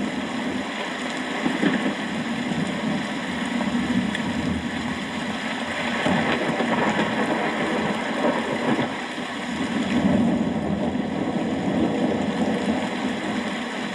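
Steady rain falling, with a low rumble underneath that swells and eases a few times.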